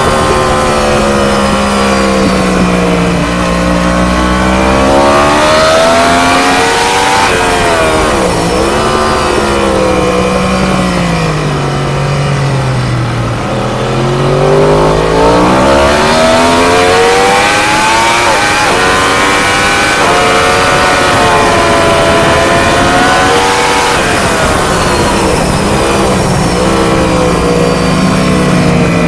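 ST1000 superbike engine heard onboard at racing speed, its revs climbing hard through the gears and dropping away under braking and downshifts into corners, with one long slow drop and climb about halfway through.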